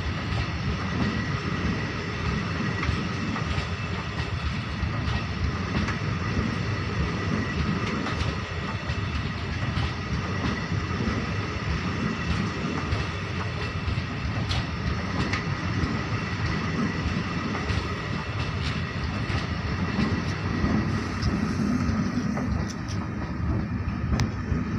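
MEMU electric multiple-unit train running past close by, with a steady rumble of wheels on rail and clickety-clack clicks over the rail joints. A steady high whine runs through it.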